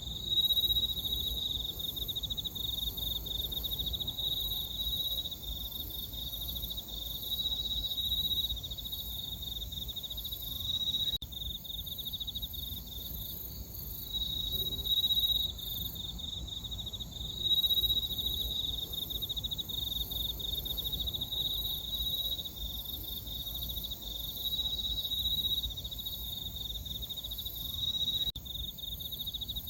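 Crickets chirping in a steady chorus: a dense, rapidly pulsing trill at one high pitch, with a fainter, even higher insect trill above it.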